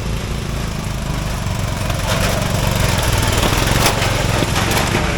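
Racing riding lawn mower engine running steadily, getting louder from about two seconds in, with several sharp knocks over the engine sound.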